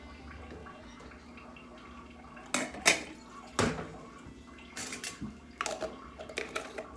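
Kitchenware-like clatter as containers and utensils are handled while setting up to strain milk: a few sharp clanks about two and a half to three and a half seconds in, then lighter clicks and taps. A low steady hum runs underneath.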